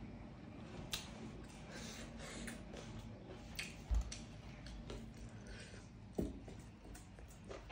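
Close-miked mouth sounds of a person eating: chewing with wet lip smacks and clicks. A dull thump sounds about four seconds in and another about six seconds in.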